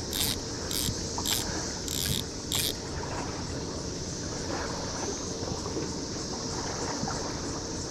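Steady high-pitched chorus of periodical cicadas, with a rhythmic ticking of about two clicks a second that stops a little under three seconds in.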